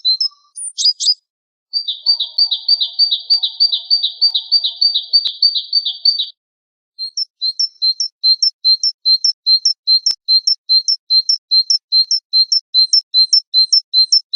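Recorded small songbird song used as a master for training a caged songbird: a few high chirps, then a fast trill lasting about four seconds, and after a short break a run of evenly repeated high chirps at about three a second.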